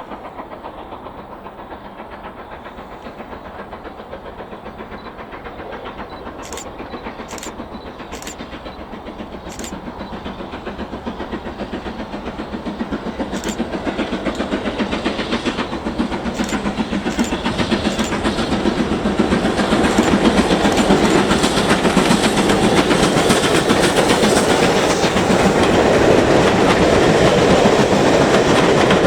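Steam train approaching, its fast rhythmic running noise growing steadily louder.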